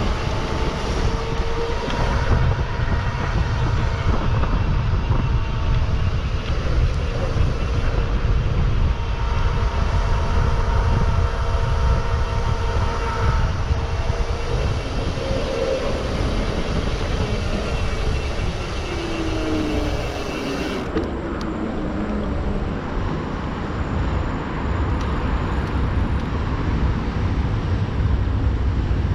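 A mountain bike rolling along a dirt trail, recorded from the bike or rider: a steady loud rumble of wind and tyres, with faint whining tones and a falling whine about two-thirds of the way through.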